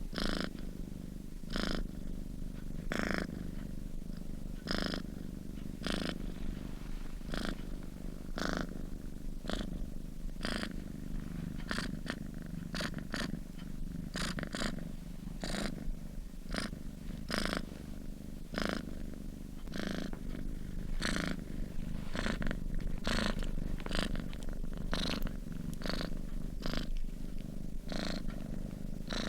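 Sleeping domestic cat purring steadily, the purr swelling with each breath at an even pace of about one breath every second or so.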